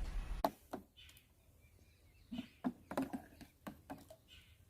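Small plastic toy animals tapping and clicking as they are pushed about, with a few scattered light knocks and quiet gaps between them.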